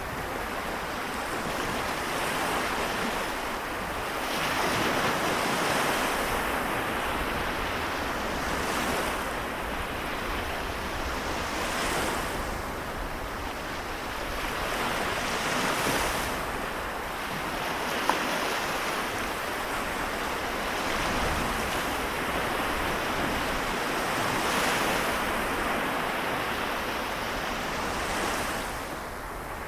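Gentle waves of the Seto Inland Sea breaking and washing onto the shore, the surf swelling and easing every four or five seconds.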